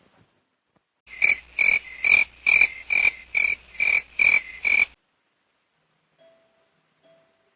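Electronic alarm clock beeping: about nine short, high beeps at one pitch, roughly two a second, cutting off suddenly after about four seconds.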